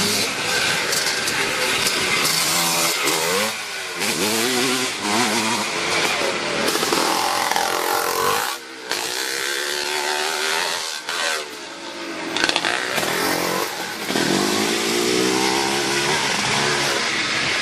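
Classic twinshock motocross motorcycles racing, engines revving up and falling back again and again as they pass and shift through gears, with the sound breaking off about eight seconds in and picking up again.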